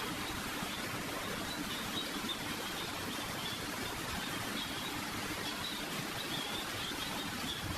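Steady, even hiss of background noise with no distinct events: the room and recording noise heard in a pause of guided meditation.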